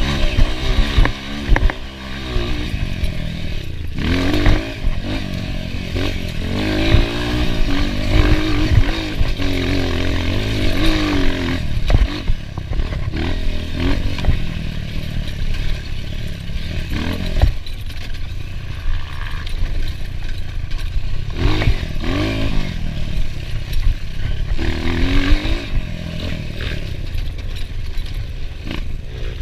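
Enduro dirt bike's engine revving up and down in repeated surges as it is ridden over rough ground, with knocks and rattles throughout.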